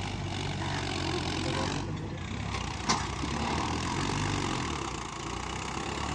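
Mahindra Arjun tractor's diesel engine running steadily at idle, with one sharp click about three seconds in.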